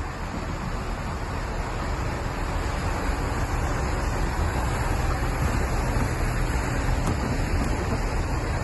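Diesel multiple unit rumbling steadily, with a low engine hum, over wind noise on the microphone; the sound grows a little louder about two seconds in.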